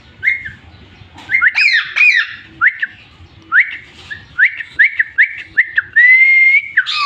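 Indian ringneck parrot calling: a string of short chirpy whistles, a harsher squawky flurry about two seconds in, and a longer held whistle near the end.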